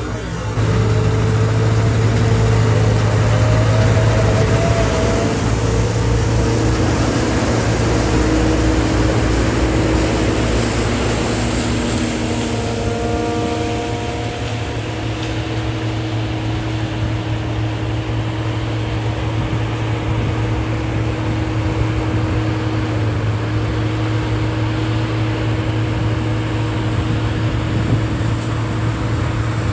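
Diesel engine of harvest machinery running steadily with a deep hum, a little louder in the first few seconds.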